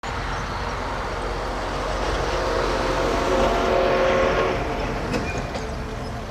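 Steam train hauled by the C58 239 locomotive running, with some faint steady tones mixed in; it grows louder to a peak around the middle and eases off near the end.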